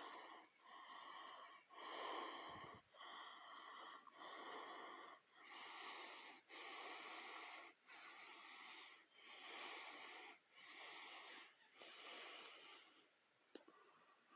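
A person's heavy, wheezy breathing close to the microphone: a steady run of in and out breaths about one a second, which stops near the end.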